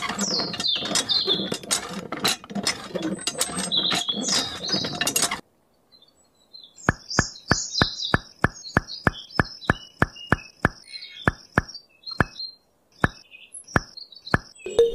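Toy hand pump worked by its lever, clicking and rattling while water splashes into a small tray. It stops suddenly; after a short silence comes a long run of evenly spaced sharp clicks, about three a second, with faint high chirps above them.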